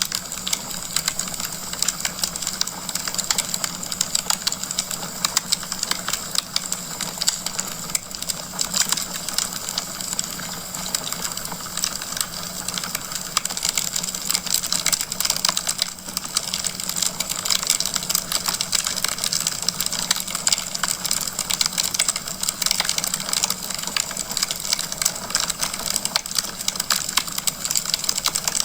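Wood logs burning in a fireplace, crackling steadily: many quick pops and snaps over a constant hiss.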